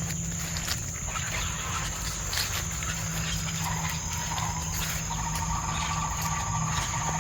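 Insects trilling steadily in woodland, one high-pitched chorus that never lets up, with a second, lower-pitched tone joining about four seconds in.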